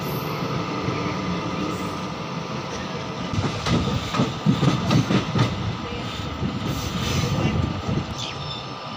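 Passenger train coach rolling along the track, its wheels clattering over rail joints and points. The clatter grows louder and more irregular from about three and a half seconds in to five and a half seconds in.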